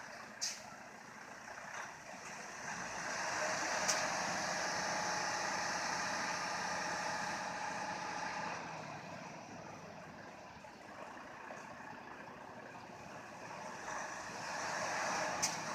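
Truck engine revving as its drive tyres spin in the snow without gaining grip, swelling for several seconds from about three seconds in, easing off, then building again near the end. A few sharp clicks.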